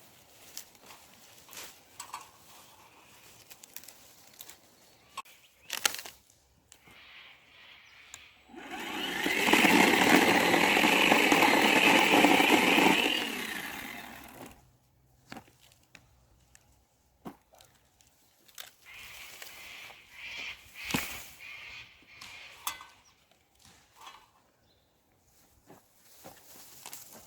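Dry wood being handled while gathering firewood: scattered cracks, snaps and knocks of branches and twigs. About eight seconds in, a loud steady rasping noise lasts about six seconds, then stops.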